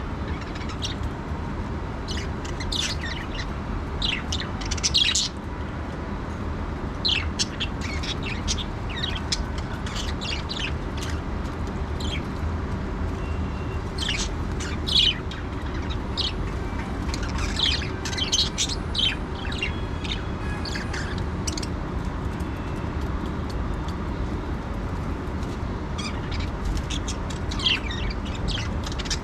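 Budgerigars chirping in short, quick bursts, scattered irregularly with brief pauses, over a steady low background rumble.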